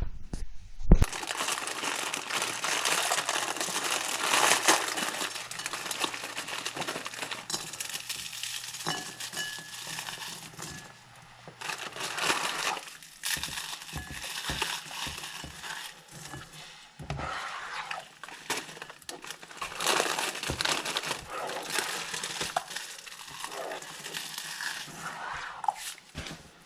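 Kitchen tap running into the sink while hands are washed under it, a steady splashing noise that rises and falls.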